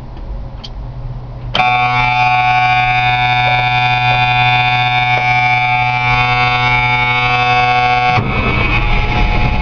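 Cummins NHC250 diesel in a 1971 AM General M817 on a cold start. The starter whines steadily for about six and a half seconds, and the engine then catches and runs roughly near the end.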